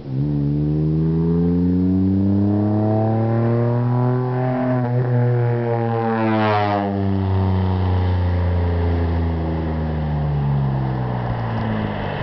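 Geo Metro's G10 three-cylinder engine through a 2-inch straight side pipe, its pitch climbing steadily for about six seconds, then falling away for about four as the throttle is let off. The exhaust takes on a rasp as the revs drop.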